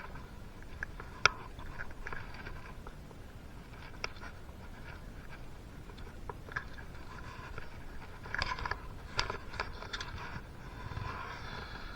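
Scattered small clicks, taps and scrapes of hand work with metal engine parts and tools, with one sharp click a little over a second in and a quick cluster of clicks and rattles about two-thirds of the way through.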